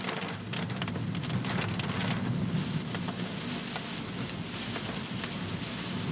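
Heavy typhoon rain pouring down steadily, with a dense patter of close drops hitting a surface near the microphone.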